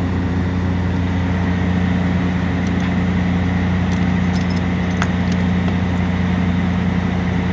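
An engine idling steadily, a constant low hum, with a few light clicks in the middle.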